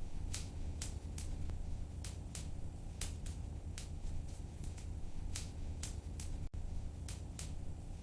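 Wood fire crackling in a fireplace: irregular sharp pops and snaps, about two a second, over a low steady rumble of the flames. The sound cuts out for an instant about six and a half seconds in.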